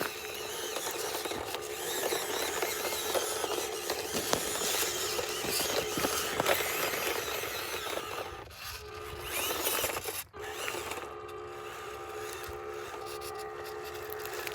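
Small electric motor and gear drive of a 1/18 scale RC crawler truck whining steadily as it drives, with tyres scrabbling and clicking over dirt and rocks. It cuts out briefly about eight and a half and ten seconds in, then carries on.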